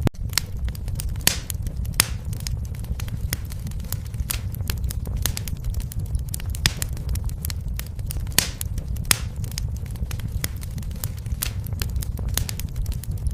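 Fire in a fireplace crackling: frequent irregular sharp pops and snaps over a steady low rumble.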